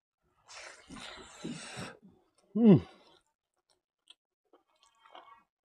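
Close-up eating sounds: noisy chewing for about a second and a half, then a short, loud vocal sound from the eater that falls in pitch. Afterwards only faint mouth clicks.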